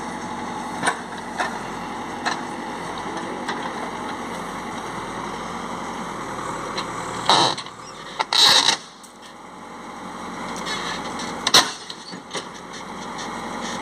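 Heavy machinery engine running steadily, with several sharp knocks and clanks. The loudest come a little past halfway, and the running drops off briefly before building again.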